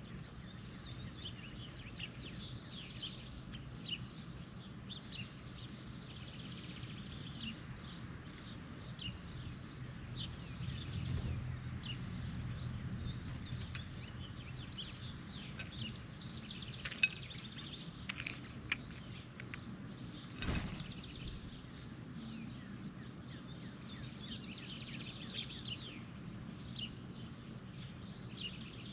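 Birds chirping with many short, repeated calls over a steady low outdoor hum, with a couple of sharp knocks past the middle.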